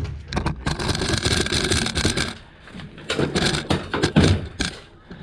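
A heavy standby generator being tipped and shifted by hand: scraping and clattering with sharp knocks, in two bouts of about two seconds each.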